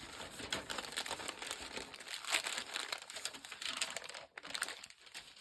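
Crinkling and rustling of packaging as stationery items are handled and unwrapped, an uneven run of small crackles.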